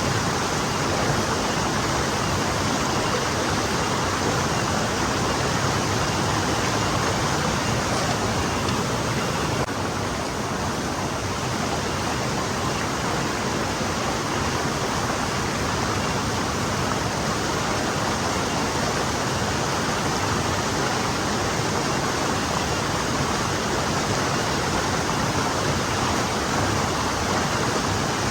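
Forest stream flowing steadily over rocks, an even rushing and babbling of water.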